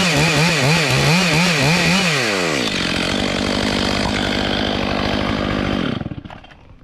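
Chainsaw running at high revs. Its pitch wavers rhythmically up and down in the cut for the first two seconds, then settles lower and holds steady before the saw cuts out about six seconds in.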